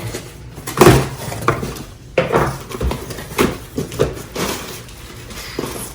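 A mailed package being opened by hand: irregular knocks, clatters and rustles of the packaging and its contents.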